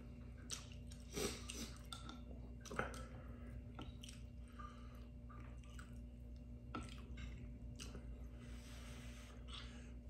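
Close-up eating sounds: soft chewing with wet smacks and occasional clicks.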